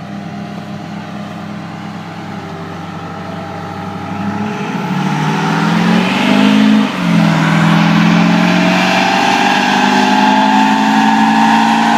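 Duramax V8 turbodiesel pickup engine making a pull on a chassis dyno. It runs steady for about four seconds, then revs climb and get much louder, dip sharply for a moment about seven seconds in, and climb again to the end.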